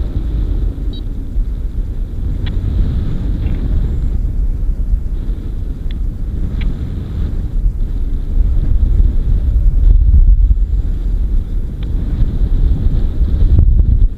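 Wind rushing over the microphone in flight, a steady low rumbling buffet that gets louder about ten seconds in.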